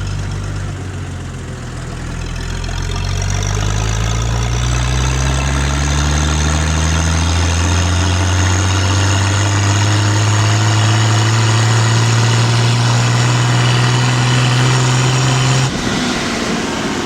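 Hanomag Robust 900 tractor's diesel engine heard through its original exhaust, speeding up gradually from low revs over several seconds, held steady at high revs, then throttled back suddenly near the end.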